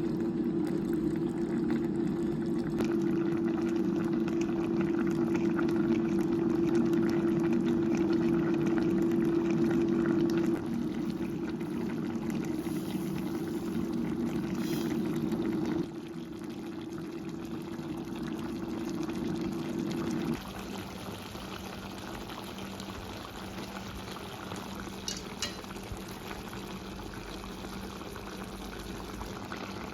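Liquid boiling in a cooking pot, a steady bubbling with a low hum under it. The sound changes abruptly a few times, and the hum mostly drops away about twenty seconds in.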